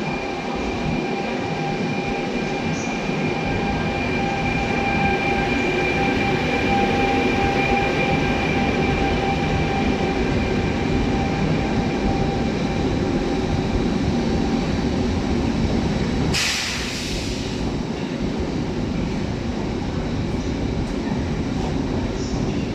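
A train running through the station, with a steady high whine over the rumble. About sixteen seconds in comes a short, loud burst of hissing air.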